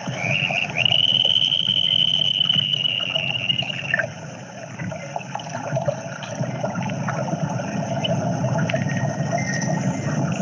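Playback of an electroacoustic soundscape piece blending field recordings with sampled sounds: a steady water-like rush throughout, with a long high held tone during the first four seconds that cuts off.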